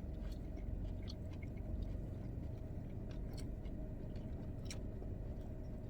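Someone chewing a burger close to the microphone: soft mouth sounds and small wet clicks over a steady low hum.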